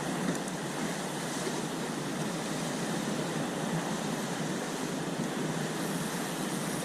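Waves washing against a sea wall, with wind on the microphone: a steady, even rush of noise.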